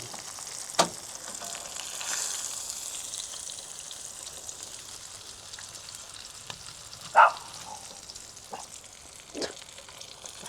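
Catfish fillets frying in hot grease, a steady sizzle, with a few short clinks, the loudest about seven seconds in.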